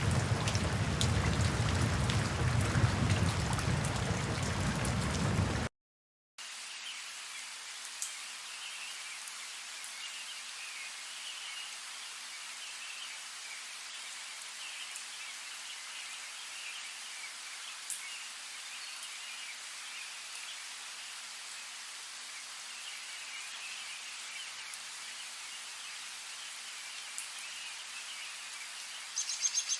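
Heavy, steady rain that cuts off suddenly about six seconds in. After a brief silence, a quieter outdoor ambience follows, with a steady chorus of high chirping calls and an occasional faint click.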